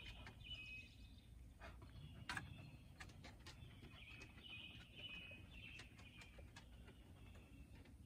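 Faint outdoor birdsong: short chirping phrases repeating every second or so, with a few sharp ticks scattered among them.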